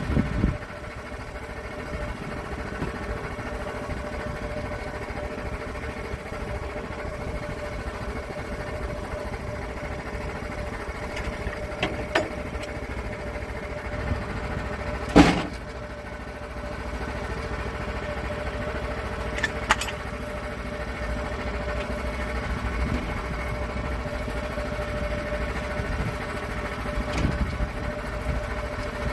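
Sawmill running steadily as it cuts a slab off an oak log, with a few sharp knocks, the loudest about halfway through.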